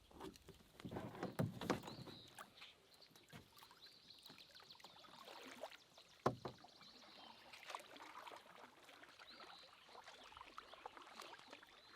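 Canoe paddling on a lake: faint paddle strokes and water splashes, with a few sharp knocks of the paddle against the hull, the loudest about 6 seconds in.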